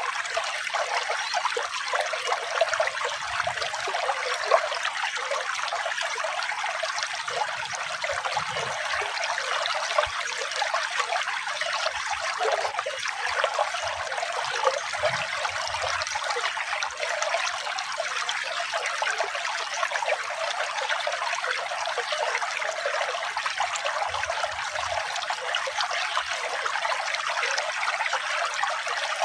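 Running water, a steady trickling and splashing flow with no letup.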